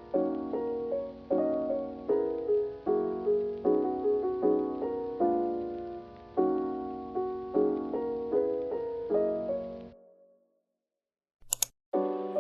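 Background piano music with soft, gently struck chords. It fades out about ten seconds in, a short click follows, and the piano music starts again just before the end.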